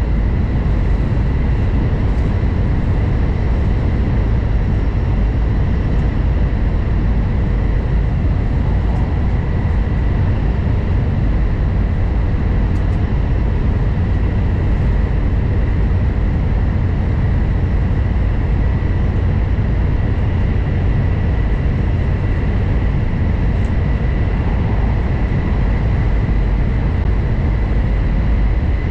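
N700 series Shinkansen at speed, heard from inside the passenger car: a loud, steady low rumble of wheels and running noise, with a thin, steady high tone over it.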